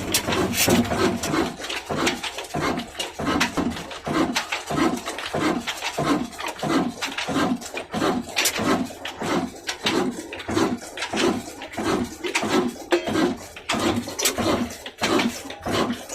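Old diesel engine running slowly, with an even rhythm of chuffs and knocks, about two or three a second.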